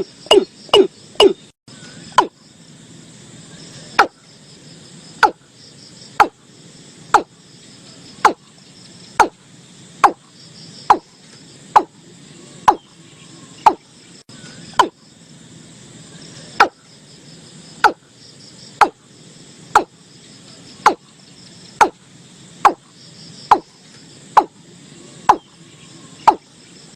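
Watercock calling: a quick run of deep, sharp notes ending about a second in, then single notes repeated about once a second. A faint high chirring of insects runs beneath.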